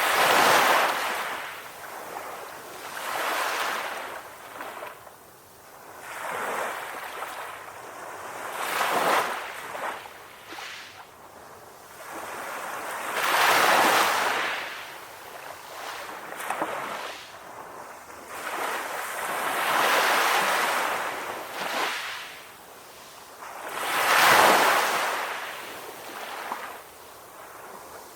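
Ocean waves breaking and washing on a beach, one surge of surf after another every few seconds.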